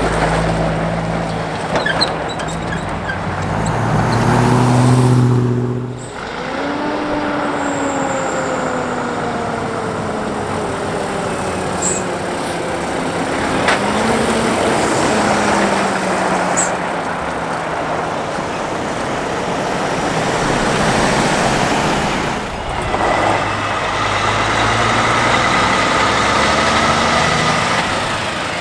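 Heavy diesel trucks hauling race transporters driving by one after another, engine pitch gliding up and down as they pull through. The sound changes abruptly twice as it switches from one truck to the next.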